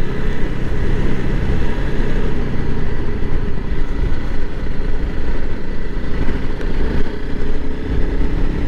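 Honda CRF300L Rally's single-cylinder engine running as the motorcycle is ridden, with the engine note shifting about two-thirds of the way through. The bike is new and still in its engine break-in period, ridden gently.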